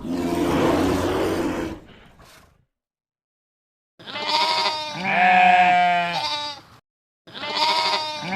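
A rough, hoarse sound for about two seconds, then, after a pause, sheep bleating: two matching long, wavering bleats, the second starting near the end.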